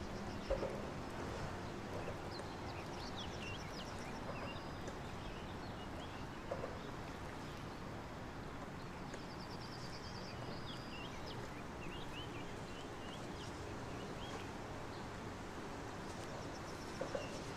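Outdoor ambience: small birds chirping on and off, with a couple of rapid high trills, over a steady background hiss. A few soft low knocks, one about half a second in and one near the middle.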